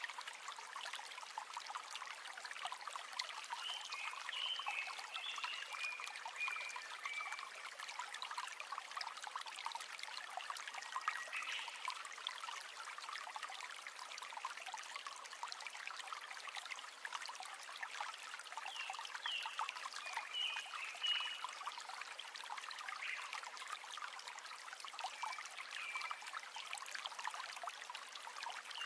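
River water trickling and babbling in a steady rush, with short high chirps several times over it.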